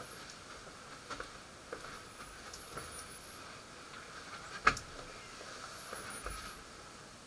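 A single sharp shot from a Kral Puncher Empire XS .22 PCP air rifle about four and a half seconds in, with a few faint clicks before it over a steady background hum.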